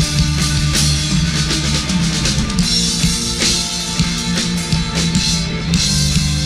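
Rock band playing an instrumental passage: drum kit with steady kick and cymbal hits under distorted electric guitar and bass guitar.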